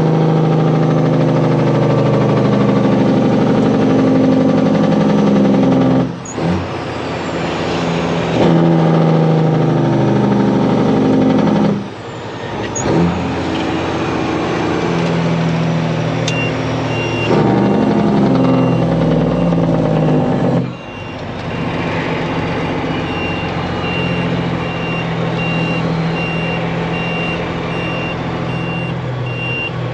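Diesel engine of a Kenworth truck, probably a Detroit Diesel, pulling hard through the gears. The engine note drops and climbs again at each shift, three shifts in all. From about halfway through, a steady series of short high beeps sounds over the engine.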